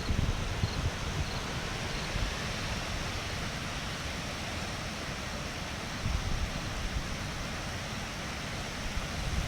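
Hurricane winds blowing steadily through trees with a constant rushing hiss, and wind buffeting the microphone with a low rumble that swells briefly about six seconds in.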